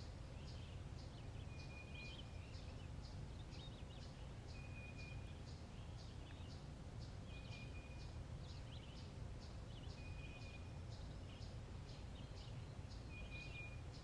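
Faint birds chirping: a regular run of short high chirps about two a second, with a short level whistled note every few seconds, over a low steady outdoor rumble.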